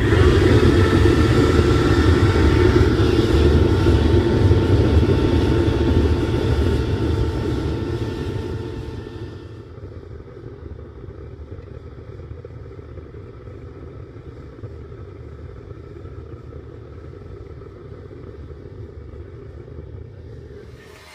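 Home-made forced-air gas burner running loud, its air blown in by an old vacuum cleaner whose motor whine sits over a deep rushing rumble. It starts suddenly, then about eight seconds in dies down to a quieter, steady rush.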